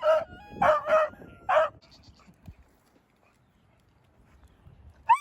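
A beagle barking at chickens: a quick run of four sharp barks in the first two seconds, then one more near the end.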